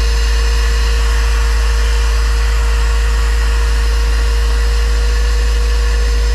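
2002 Donzi Classic 22's boat engine idling steadily, a deep even rumble with a faint steady whine over it.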